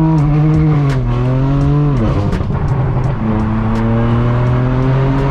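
Straight-piped exhaust of a BMW M4 F82's twin-turbo inline-six running under throttle on the road. The revs drop sharply about two seconds in, then hold a steady drone that slowly climbs, with scattered sharp clicks.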